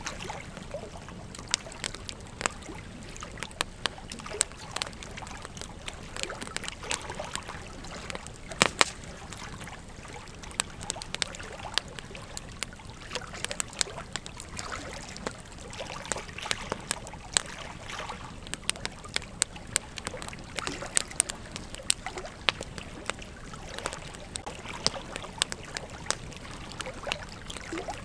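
Campfire crackling: a steady hiss of burning wood with frequent sharp, irregular pops and snaps, the loudest about nine seconds in.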